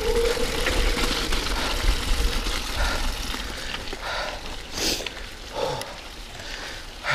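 Mountain bike riding over a wet trail: a steady rumble of tyres and rattling bike parts that gets gradually quieter as the bike slows, with a brief louder burst about five seconds in.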